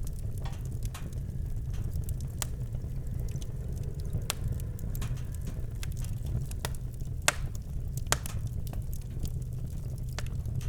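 Campfire crackling, with sharp irregular pops over a steady low rumble; the two loudest pops come about seven and eight seconds in.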